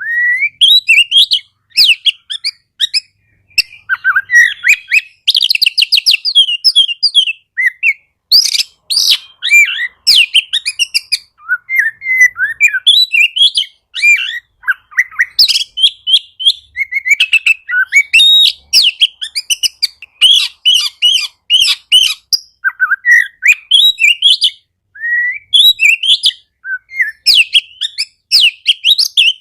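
Oriental magpie-robin (kacer) singing a fast, varied song of whistles, chirps and trills. The phrases follow each other almost without pause, with only short breaks: the bird is in full song.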